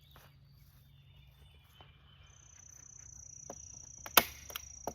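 A steady high, thin insect trill, with a hand staple gun firing once with a sharp loud snap about four seconds in and a lighter click near the end.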